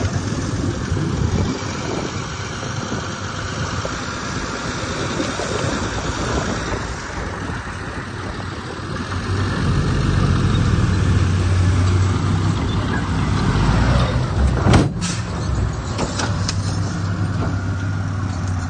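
Diesel engines of heavy earthmoving machinery running. They grow louder about halfway through as a deep steady engine note comes in, and there is one sharp knock about three-quarters of the way in.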